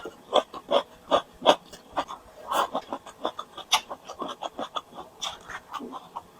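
Close-miked eating sounds: chewing and mouth smacking, a quick run of short clicks about two to three a second.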